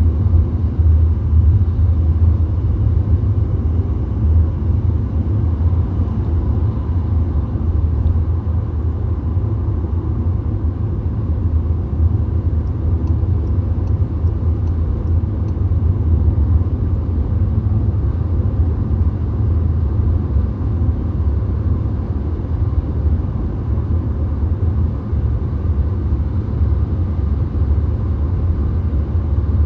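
Steady road noise of a VW Golf cruising at highway speed: an even, deep rumble of tyres and engine that holds unchanged throughout.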